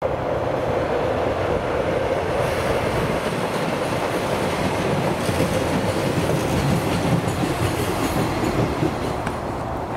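Diesel multiple-unit passenger train crossing a railway bridge: a steady loud rumble of wheels on rail and engine, dying away a little near the end.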